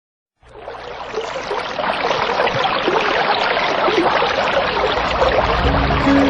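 Sea waves washing onto the shore: a steady rushing hiss that fades in at the start. Music comes in near the end.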